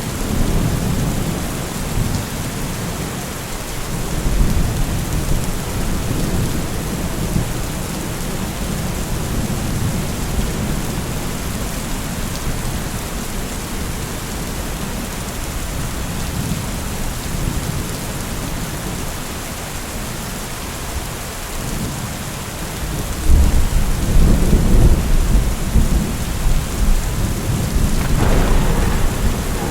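Steady rain with low rolling rumbles of thunder. A louder, longer roll of thunder comes in about three quarters of the way through.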